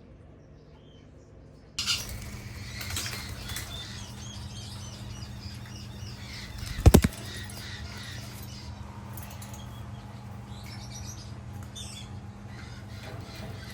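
Conures chirping in short calls over a steady low hum, with one sharp, loud knock about seven seconds in.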